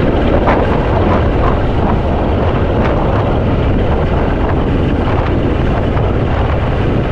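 Strong north wind buffeting the microphone in an open boat: a loud, steady rumble with no let-up.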